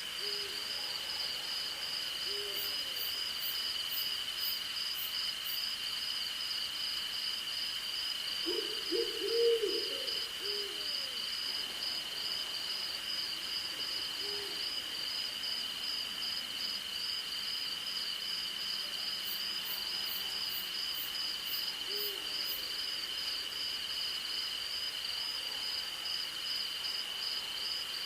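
Night forest insect chorus, crickets and other insects trilling steadily in two high tones, one of them rapidly pulsing. Over it an owl hoots in short low calls every few seconds, with a quick cluster of louder hoots about a third of the way in.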